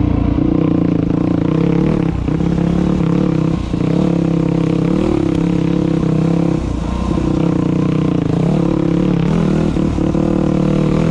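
Dirt bike engine running at a steady pitch under way, with a few brief drops in throttle.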